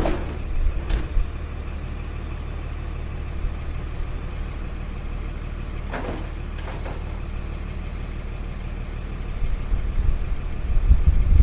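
Automated sideload garbage truck's engine running steadily, heard from inside the cab, with a few short sharp clicks and knocks. A louder low rumble builds near the end.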